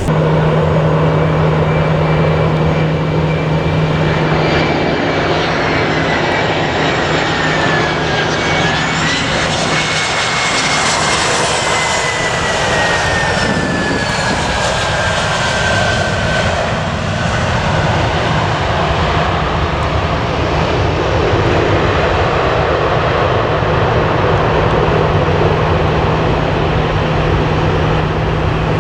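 Jet airliner's engines passing close by with a loud steady roar; a high whining engine tone falls in pitch about halfway through as the aircraft goes by.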